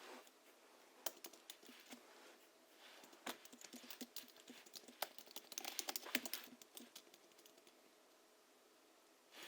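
Typing on a Hansung GHL-5X keyboard tuned with Krytox-lubed springs and 50 g rubber domes, giving soft, muted keystrokes. The keys are struck irregularly, with a quick flurry just past the middle, then a pause of about two seconds before one more keystroke at the end.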